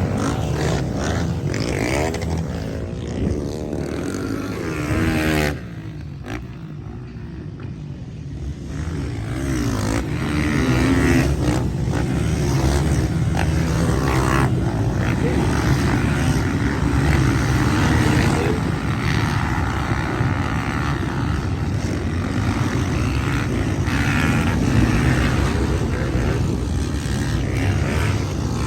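Several motocross bikes racing, their engines revving up and down as they pass. There is a brief quieter spell about six seconds in.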